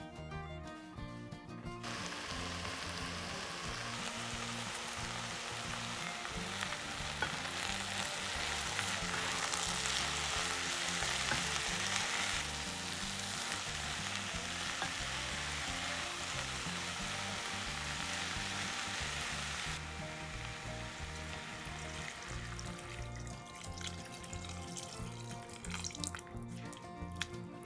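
Vegetables frying in vegetable oil in a pot, a steady sizzle that starts about two seconds in and dies down after about twenty seconds, with background music underneath.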